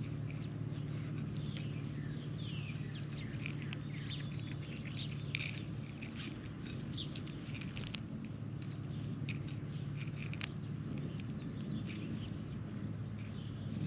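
Birds chirping with many short, quick calls over a steady low hum, with two sharp clicks about eight seconds in and again near ten and a half seconds.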